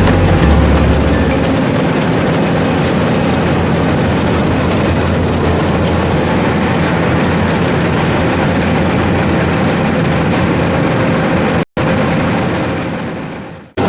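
Rice combine harvester running, a steady loud engine and machinery noise. It drops out for an instant near the end, then fades away.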